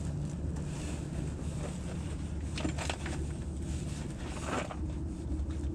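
Strong wind buffeting the microphone: a steady low rumble with gusty noise over it.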